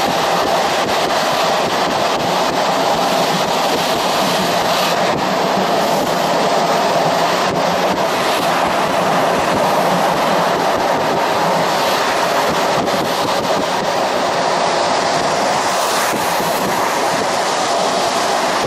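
Steady running noise of a passenger train heard from inside the carriage: wheels on the rails at speed, with no break.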